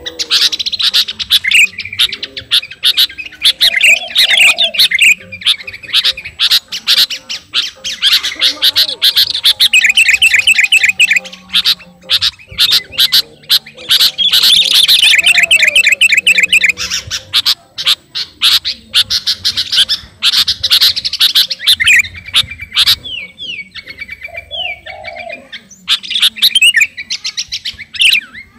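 Sooty-headed bulbul (kutilang) calling loudly and almost without pause, in fast chattering notes and rattling trills, with a couple of short lulls. This is the vigorous, challenging song of a bird calling out a rival.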